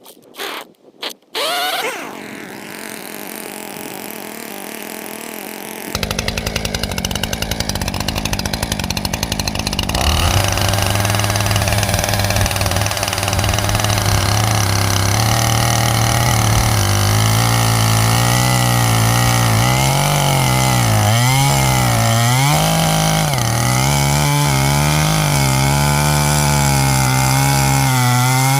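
Two-stroke chainsaw started with a few short pulls, catching about two seconds in and running. It revs up to a steady high pitch at about ten seconds. In the second half the engine note dips and recovers again and again as the chain bites into firewood logs under load.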